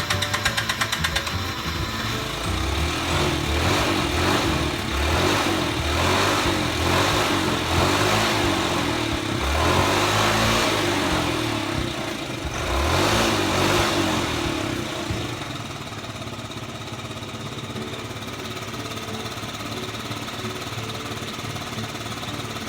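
Yamaha Jog SA36J scooter's 49cc four-stroke single engine, electric-started on a replacement starter motor. Rapid even pulses stop about a second in, then the throttle is blipped repeatedly for about a dozen seconds, and the engine settles into a steady idle for the rest.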